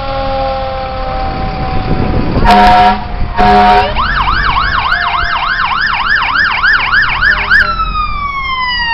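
Fire truck siren and air horn: a siren tone falling slowly in pitch, then two loud blasts of an air horn about two and a half and three and a half seconds in. An electronic siren follows, warbling rapidly up and down about three and a half times a second, and near the end it changes to a long falling sweep.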